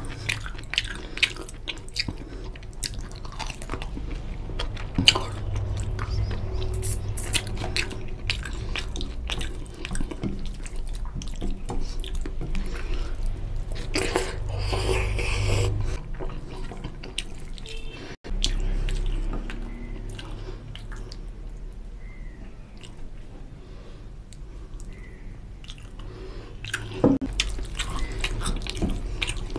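Close-miked chewing and wet mouth clicks of someone eating oily mutton curry with rice, with the squelch of fingers mixing rice into the gravy.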